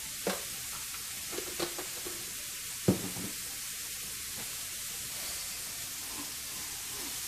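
Shrimp sizzling on a hot griddle: a steady high hiss, broken by a few sharp knocks in the first three seconds, the loudest about three seconds in.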